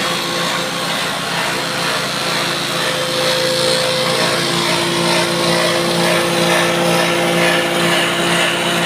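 GNR-65 multi-purpose grass chopper running steadily: its motor drones at a constant pitch under a continuous hiss from the spinning cutter, a little louder from about three seconds in.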